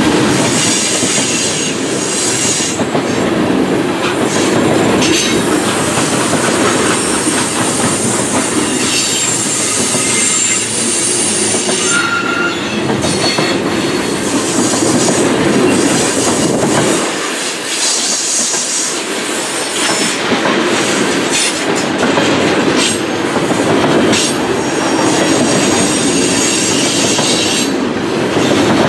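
Freight cars of a long mixed train (tank cars, then centerbeam lumber flatcars) rolling past at close range: steady wheel-on-rail noise with clacking, and thin high wheel squeals that come and go.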